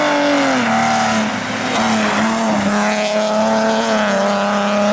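BMW E30 3 Series rally car's engine held at high revs as the car slides sideways through a bend, with tyre noise under it. The engine note dips about half a second in, then holds steady.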